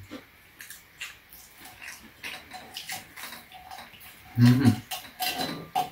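Chewing and wet lip-smacking of people eating fried croquettes, with small clicks scattered throughout. Near the end a low voice hums a short 'mm' twice.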